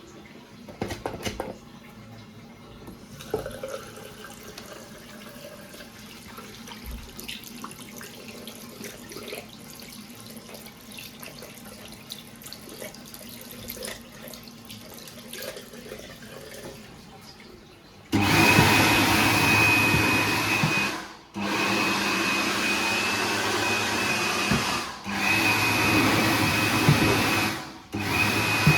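Xinda GSX-1800A (HYCO Hurricane) hand dryer starting up loudly about two-thirds of the way in after a stretch of faint background sounds. It runs as a motor and air-blast noise with a high steady whine, cutting out briefly and restarting three times.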